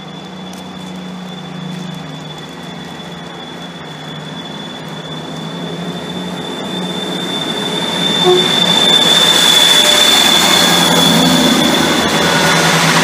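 Northern Class 158 diesel multiple unit drawing into the platform, with a steady high-pitched squeal over the rumble of the train, growing louder until it peaks about eight seconds in as the unit comes alongside.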